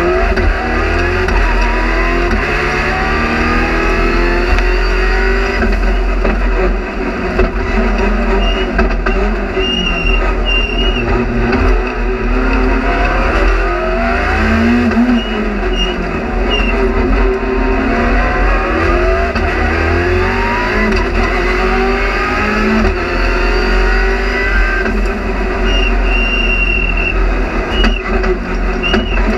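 Rally car engine heard from inside the cockpit under hard driving, its pitch climbing again and again and dropping back as the driver works up through the gears and lifts for corners.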